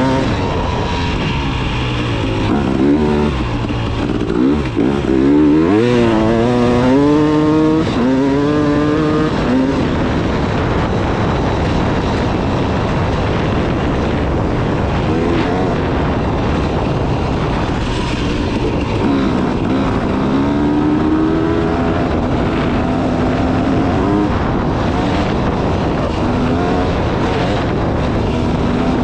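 KTM 300 two-stroke dirt bike engine being ridden, its revs rising and falling again and again as the throttle is worked, over a steady rushing noise.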